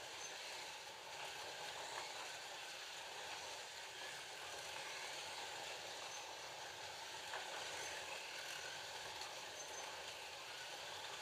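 FLY Classic slot cars with 19K motors lapping the track: a steady whir of their small electric motors, with a few faint clicks.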